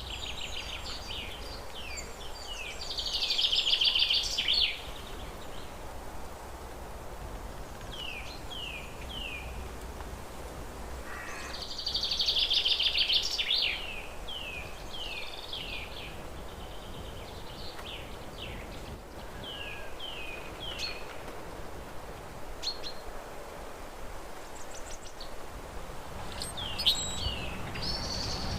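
Songbirds singing: series of short falling chirps, with two louder buzzy trills about two seconds long, one a few seconds in and one near the middle.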